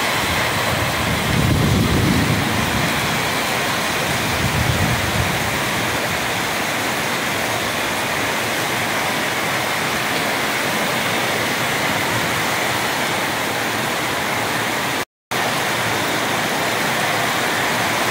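Heavy rain pouring down, a steady dense hiss, heard from under a sheet-metal carport roof. A low rumble swells twice in the first five seconds, and the sound cuts out for a moment about fifteen seconds in.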